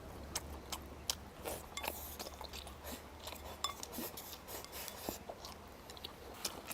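Close-up eating sounds: chewing and biting food, with many small sharp clicks and smacks.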